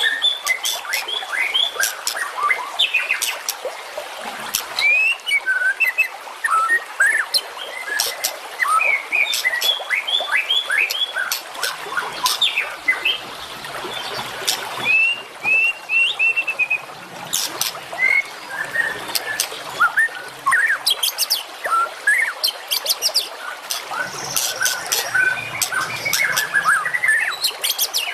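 Dense songbird chorus: many small birds chirping and singing over one another in quick whistled notes, with fast ticking chatter at times. It is a 'masteran' training recording of birdsong, played to caged songbirds such as the murai batu.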